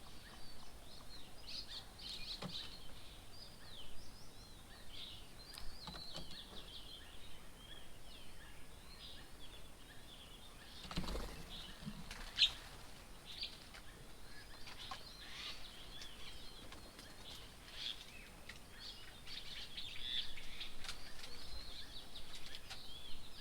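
Many birds chirping at once, short high calls overlapping without pause. Two short knocks come near the middle, the second one sharp.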